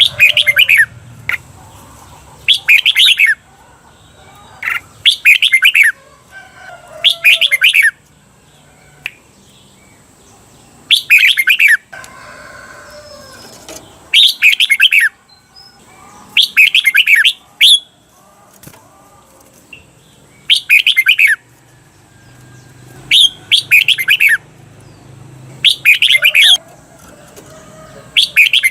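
Red-whiskered bulbul singing loud, short whistled phrases over and over, one every two to three seconds with one longer pause. This is the repeated 'double' (เบิ้ล) phrase that keepers of competition bulbuls play to train it into their birds.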